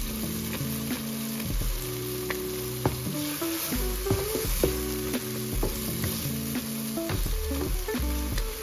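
Eggs and tomatoes sizzling in oil in a pan while being stirred, with scattered clicks of the utensil against the pan. The mixture is being fried down until the oil rises to the top. Background music with changing held notes plays underneath.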